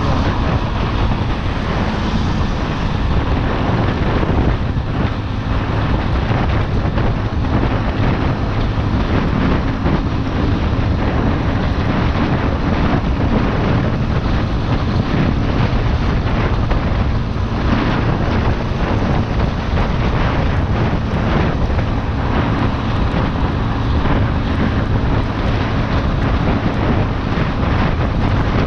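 Chopper Road 150cc motorcycle engine running at a steady cruise, mixed with heavy wind noise buffeting a GoPro's built-in microphone.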